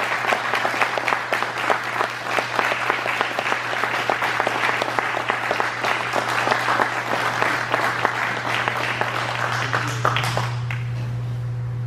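Audience applauding, many hands clapping together, dying away about ten and a half seconds in.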